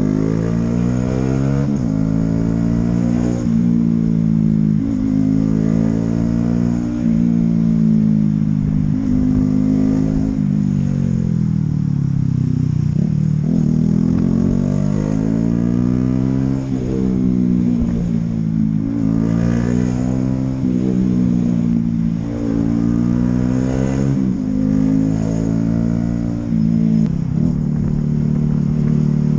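Honda CB125R's single-cylinder 125 cc engine accelerating up through the gears and backing off, again and again, its pitch rising with each pull and dropping with a brief break at every gear change.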